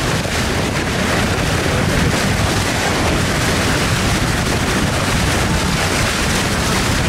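Steady wind rumble on the microphone aboard a moving boat, mixed with the rush of water against the hull.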